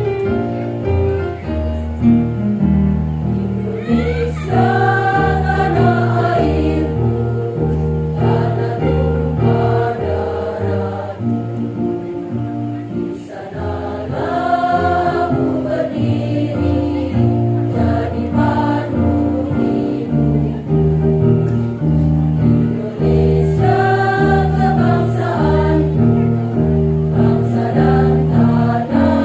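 Women's choir singing an anthem in unison over an instrumental accompaniment of held, changing chords, the high voices wavering with vibrato.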